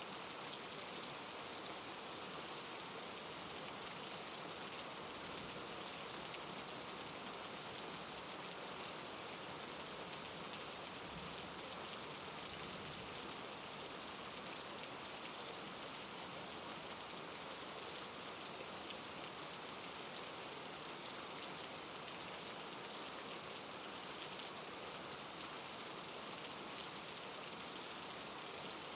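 Steady soft rain falling, a constant hiss of drops on a surface with fine pattering and no thunder.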